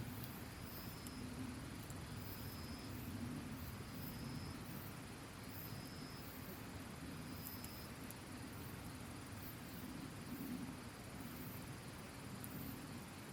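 Campfire burning with a few sharp pops, over the steady rush of a nearby mountain stream, with insects chirping in a fast regular rhythm. A second, lower chirping call repeats about once a second and stops about halfway through.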